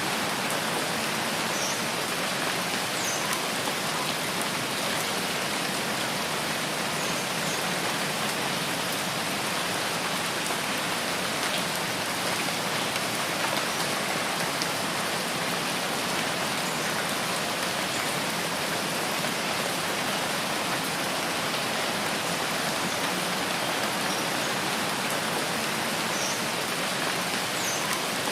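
Steady rain falling in a rain forest, a dense, even patter of drops with no let-up, with a few faint, short high chirps now and then.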